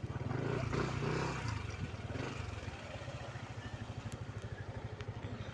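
Motorcycle engine running steadily with an even low putter. A brief louder stretch of other sound comes in the first second or so.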